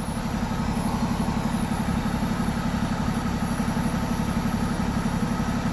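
A vehicle engine idling with a steady, even throb.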